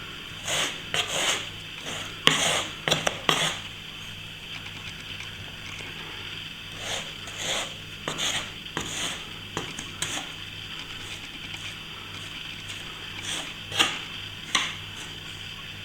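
Hand plastering tools and brush working wet plaster filler, in short irregular rubbing and scraping strokes.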